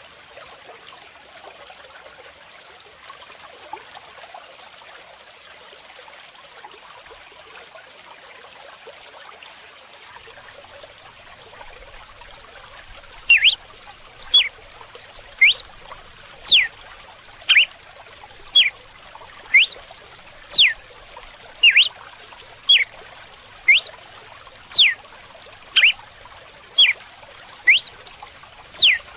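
Running water trickling steadily; about thirteen seconds in, a red-cowled cardinal (galo-de-campina) starts its whip song (canto de açoite): a run of loud, sharp whistled notes about one a second, some sweeping up and some sweeping down.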